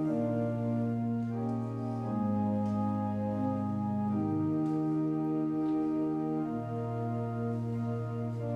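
Organ playing slow chords, each held steady for a second or two before moving to the next.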